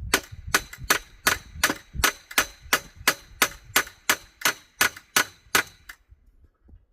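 A rapid, even series of about seventeen metallic clanks, roughly three a second, each with a short ring, stopping about six seconds in.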